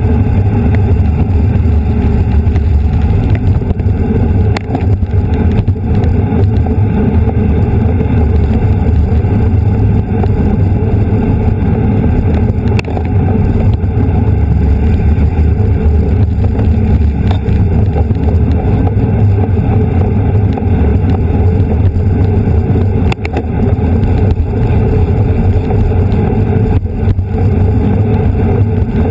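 Wind rushing over the microphone of a camera riding along on a racing bicycle at speed: a loud, steady low rumble.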